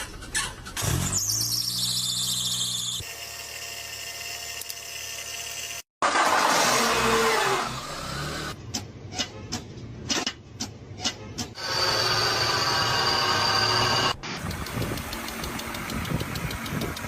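A run of short, separate clips of car engine noises: a rising whine, a squeal, a stretch of rapid clicks or knocks, and a steady whine. These are the kinds of abnormal noises that point to a mechanical fault.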